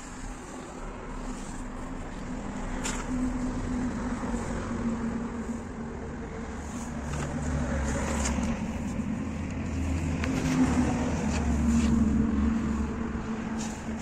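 A motor vehicle engine running steadily, its low rumble growing louder in the second half, with a few sharp clicks over it.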